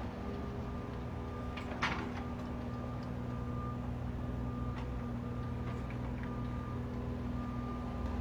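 Steady engine hum of construction machinery working nearby, with a faint high tone that comes and goes and a single sharp click about two seconds in.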